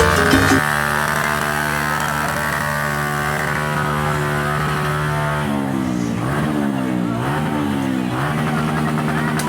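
Motorcycle engine idling steadily, then revved several times from about five and a half seconds in, its pitch rising and falling with each blip of the throttle. Music ends in the first moment.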